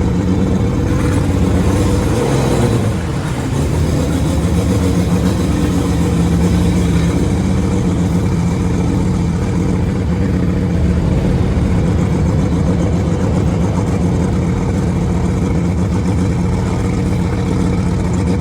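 Mariner 135 V6 two-stroke outboard motor running steadily under way on a bass boat, with a rush of wind and water over it and a brief dip in level about three seconds in.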